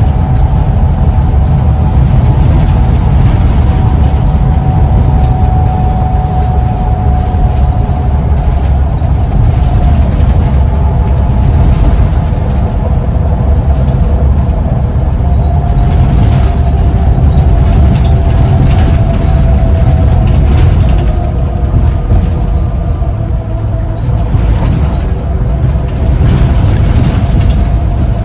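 Scania CN94UB (Omnicity) diesel bus running steadily under way: a loud, continuous low engine drone with a thin whine above it that slowly shifts in pitch.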